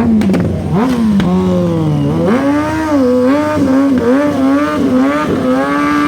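Motorcycle engine revving hard during a burnout: the pitch sags over the first two seconds, climbs sharply about two seconds in, then stays high with quick up-and-down wavers as the throttle is worked.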